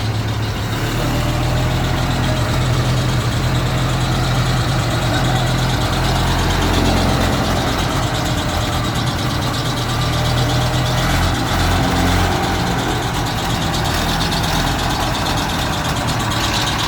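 Engine of a World War I-era Liberty truck running steadily at idle, a low, even engine note with a slight waver about two-thirds of the way through.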